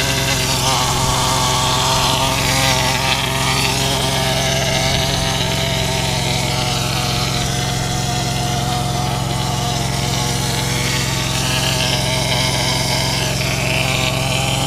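Engine of concrete-spraying (shotcrete) equipment running at a steady speed, giving an even, buzzing drone.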